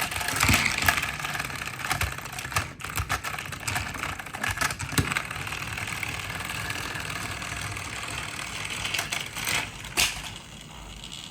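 An engine idling steadily, with irregular clicks and knocks over it.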